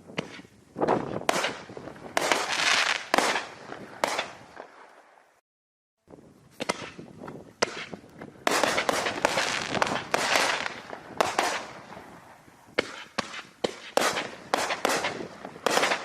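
Reloadable aerial firework shells bursting overhead: a series of sharp bangs, each trailing off, in dense clusters. The sound cuts out briefly about five seconds in, then more shell breaks follow.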